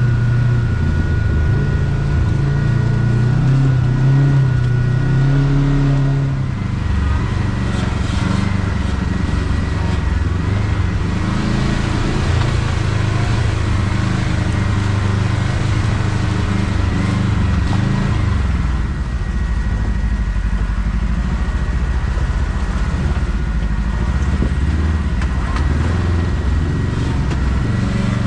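Kawasaki KRX side-by-side's engine running steadily as the machine drives along a rough trail, its note shifting about six seconds in.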